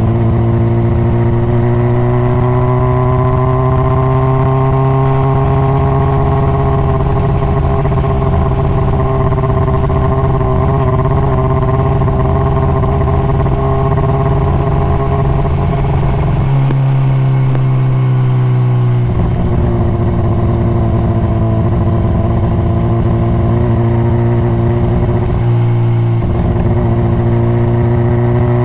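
A 2021 Honda CBR600RR's inline-four engine, through its stock exhaust, heard from on board while riding. The engine note rises over the first few seconds and then holds steady. About two-thirds of the way through the pitch sags briefly and picks up again.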